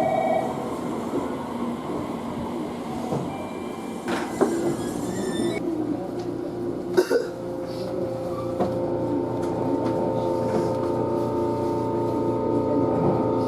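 A train running on rails, with a couple of sharp clicks near the middle. In the second half a steady, many-toned whine sets in and holds.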